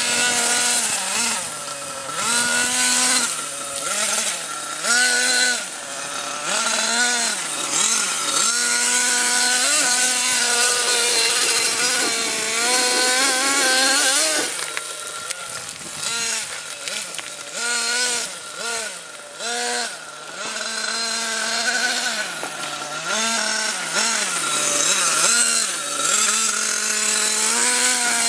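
Small motor of a radio-controlled vehicle revving up and down over and over, its pitch rising and falling every second or two.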